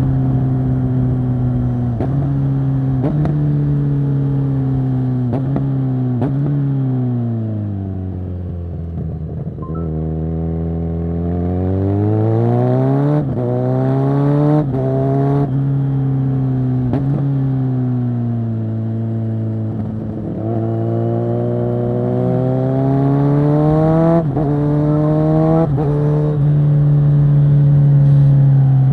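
Kawasaki Z900 SE inline-four motorcycle engine through a Zard full-system exhaust, ridden at a moderate pace. The engine note drops low as the bike slows about a third of the way in, then climbs through several quick upshifts before settling into steady cruising, rising again near the end.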